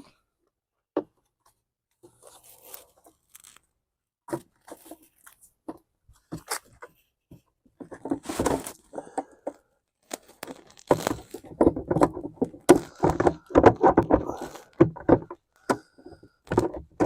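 Irregular clicking, knocking and scraping of hard plastic light-assembly parts being handled and pushed into place, sparse at first and much busier in the second half.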